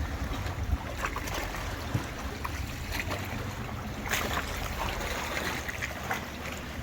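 Small tour boat moving through the sea: a steady low rumble, with water splashing and trickling along the hull.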